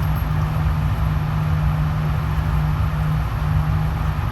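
Steady low mechanical hum of an indoor shooting range's ventilation system.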